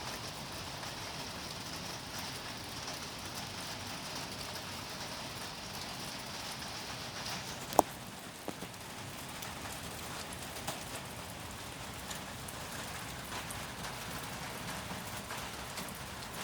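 Steady rain falling, with scattered drips. A single sharp click about halfway through.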